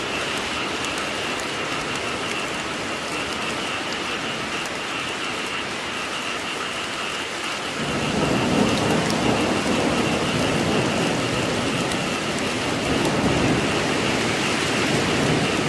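Steady heavy rain falling, with a low rumble of thunder coming in about halfway and rolling on to the end.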